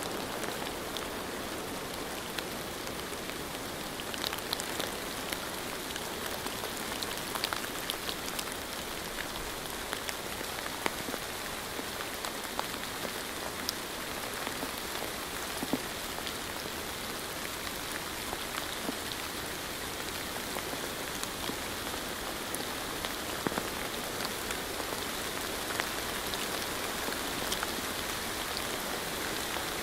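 Steady rain falling, with many individual drops ticking sharply here and there over an even hiss.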